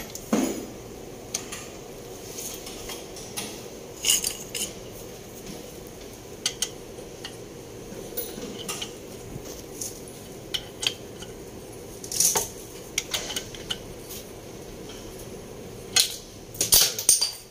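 Metal hand tools and engine parts clinking and clanking during engine assembly work, in scattered sharp clicks with a denser run of clanks near the end.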